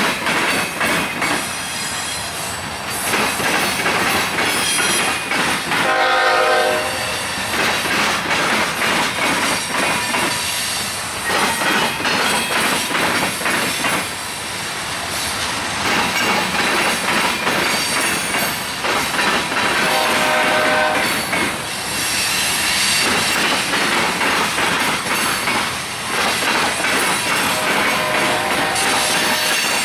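Train rolling past, its wheels clattering and squealing on the rails, with a locomotive horn sounding about six seconds in, again around twenty seconds in, and briefly near the end.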